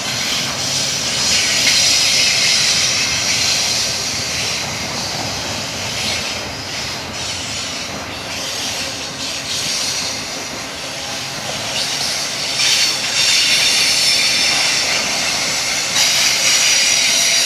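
Freight train rolling past: a steady rumble of wheels on rail with high-pitched wheel squeal. The squeal swells about two seconds in and again over the last five seconds.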